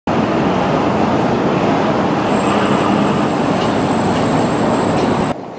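Train running past, a loud steady rumble and rail noise. A thin high whine joins it about two seconds in. The sound cuts off suddenly near the end.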